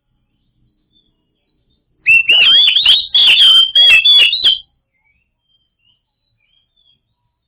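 Oriental magpie-robin singing one loud phrase of rapid whistled notes mixed with harsh clicky notes. It starts about two seconds in and lasts about two and a half seconds.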